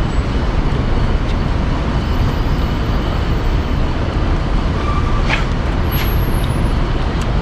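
Steady low rumble of road traffic, with a couple of faint short clicks about five and six seconds in.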